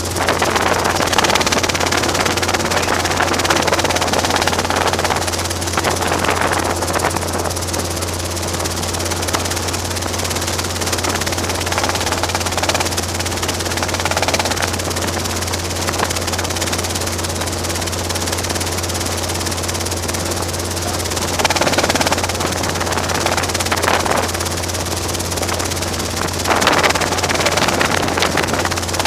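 Robinson R22 helicopter running, its piston engine and rotor making a steady drone with a constant low hum. A few brief louder swells come and go.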